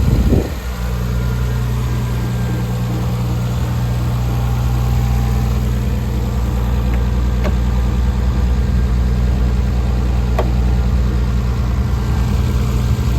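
1990 Nissan 300ZX's V6 engine idling steadily on its raised cold-start idle as it warms up. The note settles about half a second in.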